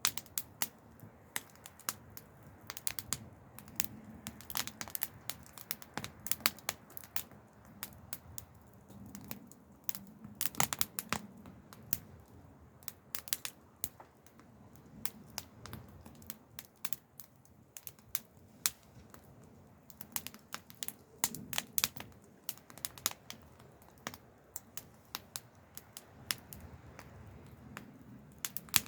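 Wood fire crackling: irregular sharp snaps and pops, several a second in clusters, over a faint low rumble.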